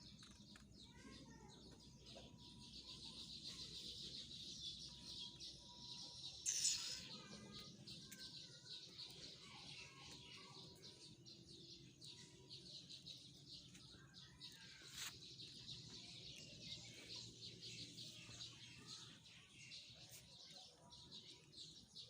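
Many birds chirping faintly in a dense, continuous chorus, with one brief louder sound about six and a half seconds in.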